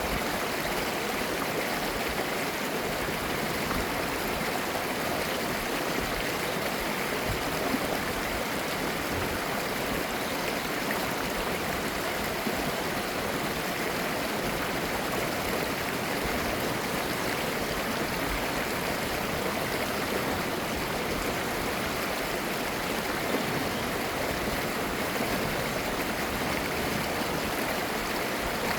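Mountain stream flowing over rocks, a steady even rush of water with small gurgles.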